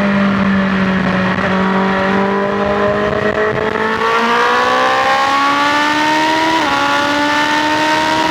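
BMW S1000XR's inline-four engine running at highway speed. Its pitch eases slightly, then rises under acceleration from about four seconds in, dips briefly once about six and a half seconds in like a quick upshift, and climbs again, over a steady rush of wind and road noise.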